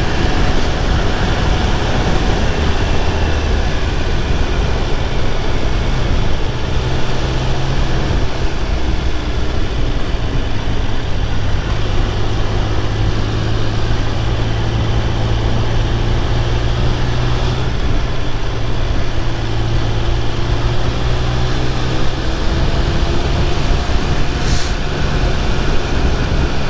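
Triumph Speed Triple 1200 RR's inline three-cylinder engine running steadily while the bike is ridden along, its note drifting slowly in pitch, over a constant rush of wind and road noise. A brief sharp tick comes near the end.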